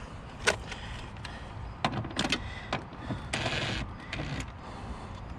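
Scattered metal clicks and knocks, with a short scraping rattle about three and a half seconds in: a socket and seat bolts being handled while a car seat is bolted back onto its track.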